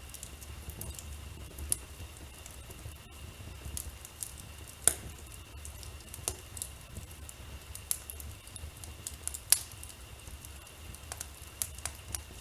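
Wood fire crackling in a fireplace: irregular small crackles, with two louder pops, one a little before halfway and one about three-quarters through, over a low steady rumble.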